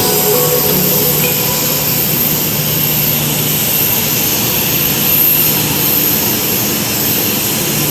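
Jet airliner noise: a steady roar with a high-pitched whine held throughout.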